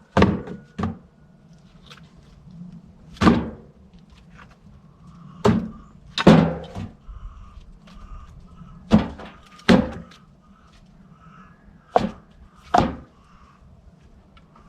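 A series of sharp knocks or thuds, about nine in all, several coming in pairs less than a second apart.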